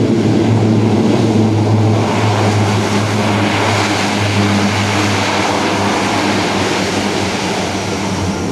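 A Lockheed C-130J-30 Super Hercules's four Rolls-Royce AE2100 turboprops with six-bladed propellers, running loud in reverse pitch on the landing rollout to brake the plane. A deep, steady propeller drone sits under a broad rushing noise that strengthens about two seconds in.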